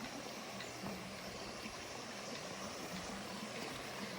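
Flowing stream water, a steady rushing wash.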